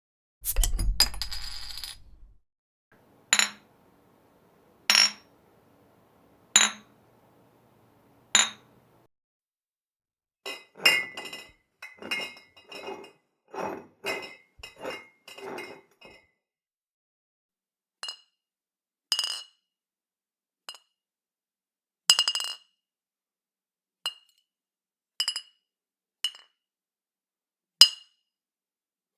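Glass bottles clinking together: a heavier knock at the start, then single sharp clinks with a short ring a second or two apart. Midway comes a run of rapid rattling clinks, and more single ringing clinks follow.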